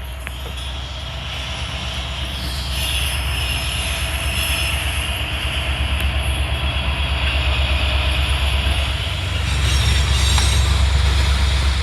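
A train rolling past with a steady low rumble. A high wheel squeal comes in about three seconds in and fades by about nine seconds, and the rumble grows a little louder near the end.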